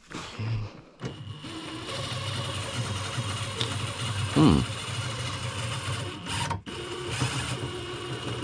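Cordless drill running steadily under load, driving a jack screw to slowly lower the motorcycle frame, with brief pauses about a second in and again near the end. A short squeal falling in pitch stands out about four and a half seconds in.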